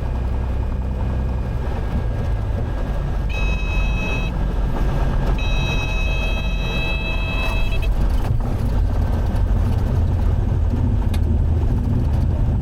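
Cessna 182 cabin noise with the engine running as the plane lands, and the stall warning horn sounding twice, first briefly and then for about two and a half seconds, in the landing flare. The low rumble grows a little stronger after the horn stops.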